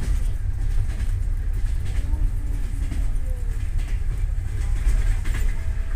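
Long-distance passenger train coach running along the track, heard from inside the compartment: a steady low rumble of wheels on rails, with a few light clicks about five seconds in.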